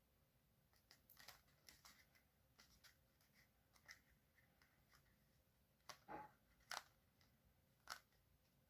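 Faint paper handling: scattered short rustles and crisp clicks of a sheet being folded and creased, the loudest a few in a row about six to eight seconds in.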